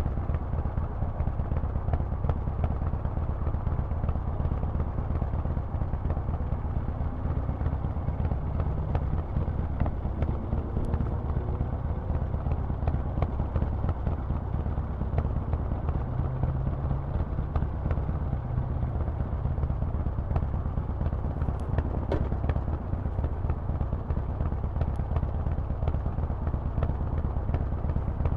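Harley-Davidson Forty-Eight's air-cooled V-twin running steadily through a Vance & Hines aftermarket exhaust, giving a deep, even exhaust note with no revving.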